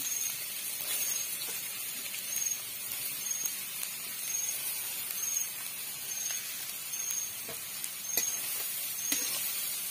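Grated carrots sizzling in hot oil in an iron kadhai, a steady hiss with a few faint clicks near the end.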